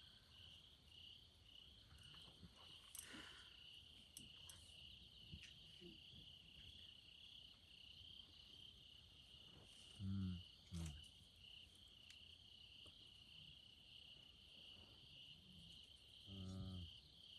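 Crickets chirping in a steady, fast pulsing trill. A person makes a short low vocal sound about ten seconds in and again near the end.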